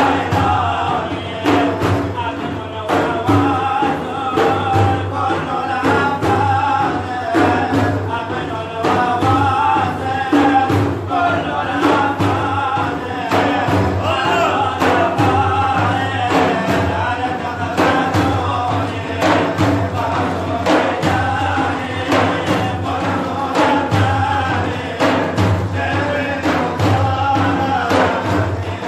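Male voices singing a religious praise song (madih), a wavering melodic line over a steady percussion beat.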